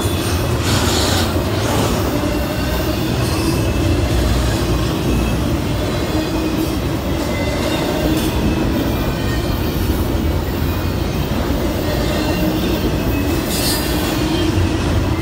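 Double-stack intermodal freight train's well cars rolling past at close range: a steady rumble of steel wheels on rail, with faint thin squealing tones over it.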